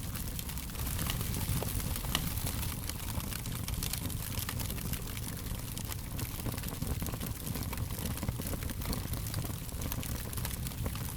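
Fire crackling steadily, with many small quick pops and snaps over a low rumble and a soft hiss.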